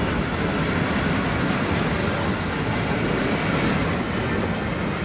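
Vintage passenger coaches of a heritage train rolling past: a steady rumble of wheels on the rails.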